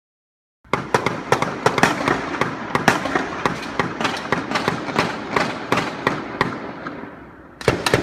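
Rapid, irregular gunfire: a long string of sharp shots at roughly three a second, starting abruptly under a second in and thinning out toward the end, then a fresh cluster of shots just before the end.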